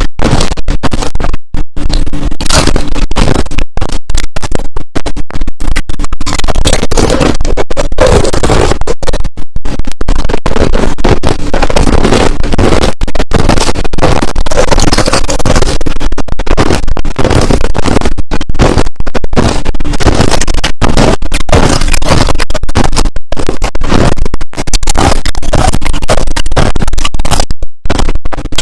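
Crushed ice, clear and powdery, being chewed close to the microphone: loud, dense crunching with brief breaks between bites.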